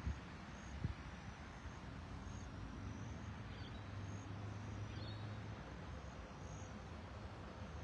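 Quiet lakeside outdoor ambience: a steady hiss of background noise with short, faint high chirps repeating every half second to a second, and a small knock about a second in.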